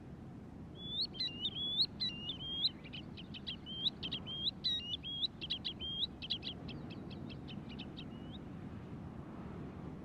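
A bird calling in a fast series of short, high whistled notes, many rising at the end. The calls start about a second in and quicken into rapid trilled notes before stopping at about eight seconds.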